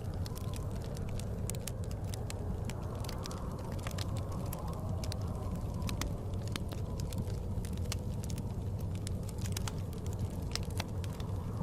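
Wood fire crackling, with frequent sharp, irregular pops over a steady low rush of blizzard wind that swells and eases slowly.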